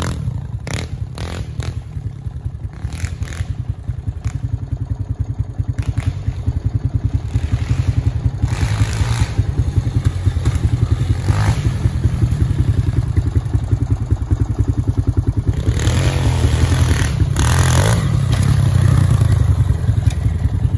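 Pit bike engine running hard around a dirt track, quieter early on as it moves away and growing louder again in the last few seconds as it comes back near, with a few short clattering knocks along the way.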